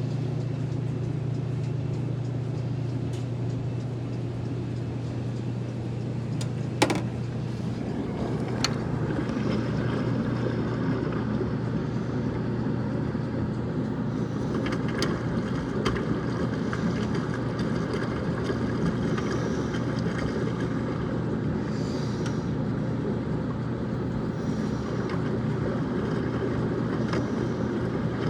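Maytag Neptune front-load washer beginning its cycle once its door has locked: a steady low machine hum, a sharp click about seven seconds in, then a rushing noise that builds from about eight seconds on.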